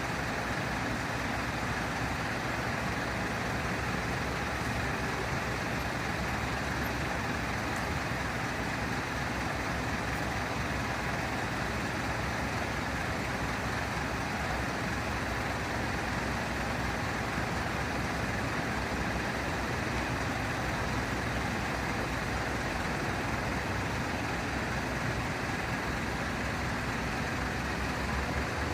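Steady running of a large truck's engine at idle, an even noise with no changes.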